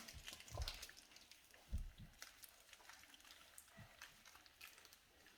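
Faint crinkling and ticking of a small plastic blind bag being opened by hand, with a few soft knocks.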